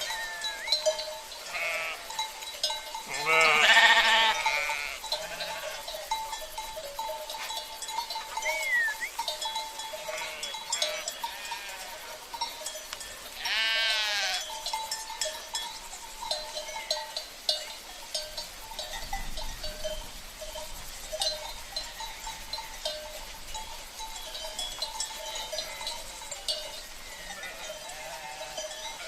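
A flock of sheep bleating, with two loud bleats about four and fourteen seconds in and a few fainter ones, over the constant clinking of sheep bells.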